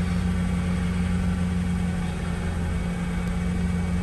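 Mercedes SL 500 (R230) V8 idling steadily just after a cold start on a half-E85 ethanol, half-petrol mix, run through a newly fitted ethanol conversion box; it runs evenly, with no sign of trouble starting or holding idle.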